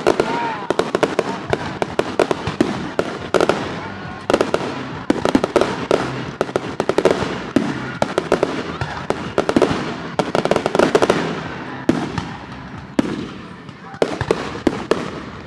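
Fireworks display going off: many sharp cracks and bangs in quick succession, with crackling swells in between and no real pause.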